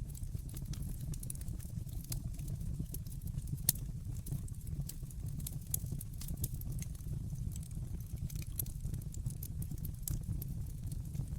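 Wood fire in a fireplace crackling, with scattered small snaps over a steady low rumble and one sharper pop a little under four seconds in.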